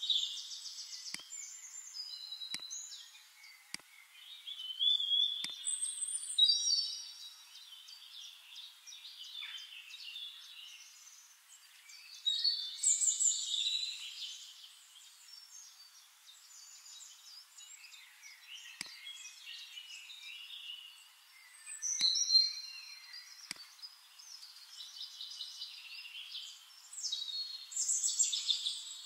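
Songbirds chirping and trilling in short high-pitched phrases, several overlapping, with a few faint clicks scattered through.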